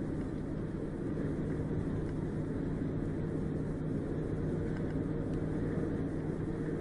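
Steady drone of a vehicle driving, a constant engine hum with road noise that does not change.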